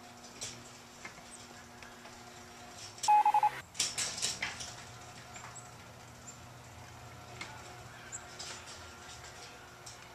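A short burst of rapid electronic beeping about three seconds in, followed at once by a flurry of sharp clicks and rattles, over a faint background of scattered light ticks and chirps.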